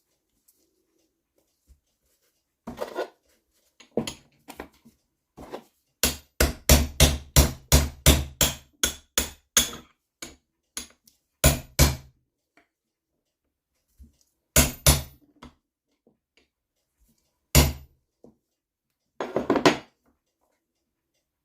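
Hammer blows on a metal part of an NSU Quickly two-speed moped engine being dismantled: a quick run of about three blows a second for some four seconds, then a few more single and paired blows.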